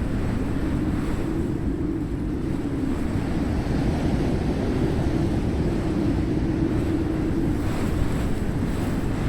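Ocean surf with wind buffeting the microphone: a steady low rumble.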